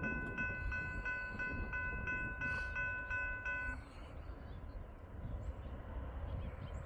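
Railroad grade crossing bell ringing about three strikes a second, then stopping a little under four seconds in, over the low rumble of a passing train.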